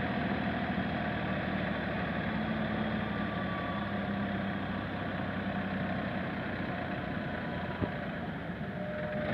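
Tractor engine running steadily, with a single short knock about eight seconds in.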